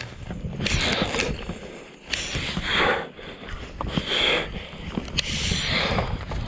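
Wind buffeting the microphone in a low rumble, with a rhythmic swish about every second and a half from a ski tourer moving over snow.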